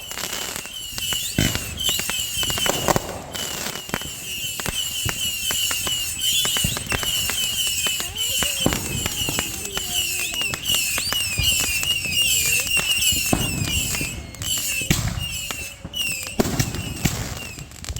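A barrage of consumer fireworks going off: a rapid, continuous string of pops and bangs with crackling, and a repeated high chirping running under it throughout.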